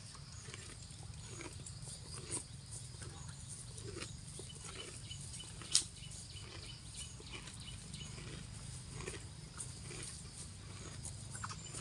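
Cow grazing: irregular crunching as it tears off and chews grass, over a steady low hum, with one sharp click about six seconds in.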